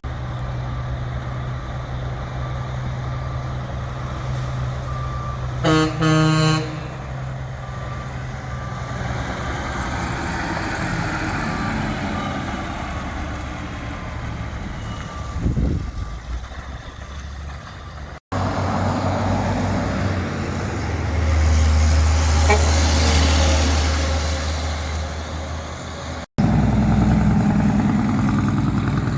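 Heavy truck engines running and passing, with a truck horn blast of under a second about six seconds in. The sound changes abruptly twice as different trucks are heard, the loudest one passing close between about 21 and 25 seconds.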